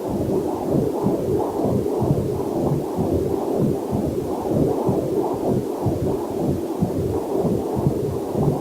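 Fetal heartbeat picked up by a Doppler fetal heart monitor: a fast, steady whooshing pulse at roughly two beats a second, muffled, with nothing above about 1 kHz.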